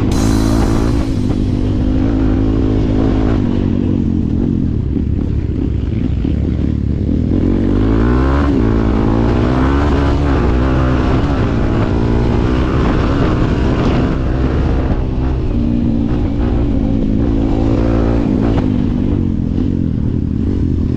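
A vehicle engine running steadily under load, its pitch rising and falling briefly about eight to ten seconds in.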